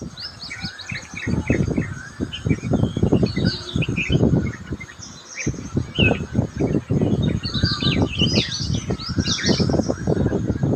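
Several small songbirds chirping and trilling in quick, high notes, over a loud low rumbling and thumping on the microphone that is louder than the birds.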